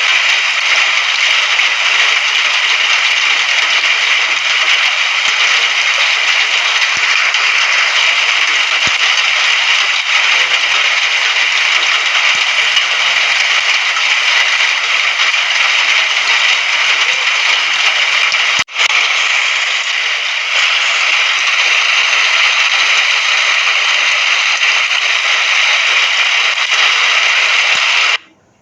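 Steady, dense rain hiss with no let-up, broken once by a split-second dropout about two-thirds of the way through and cutting off abruptly near the end.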